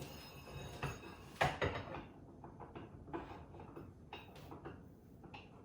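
Light clicks and knocks of a kitchen rail and its end fittings being handled and fitted to the wall, with one louder knock about a second and a half in.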